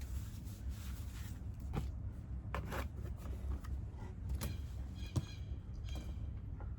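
Scattered light clicks and knocks as an earth auger's fuel tank is handled and fitted back onto its small engine, over a steady low hum.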